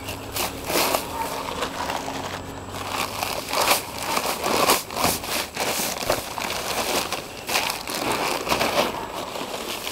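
A shovel scraping and crunching through loose dirt and gravel in irregular strokes.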